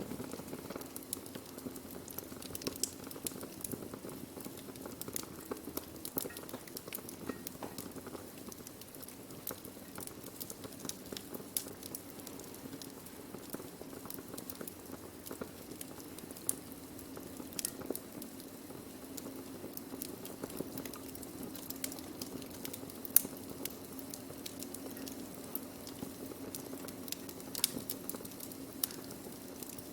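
Burning wood crackling steadily: a low hiss of flame with scattered sharp pops and snaps, a few of them louder, near the middle and near the end.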